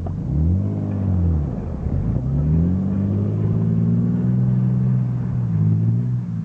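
Vacuum cleaner running with a low hum that rises and falls in pitch several times, then holds steadier near the end.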